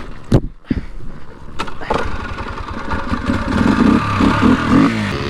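A dirt bike being bump-started: a few clunks, then the engine catches about two seconds in and keeps running.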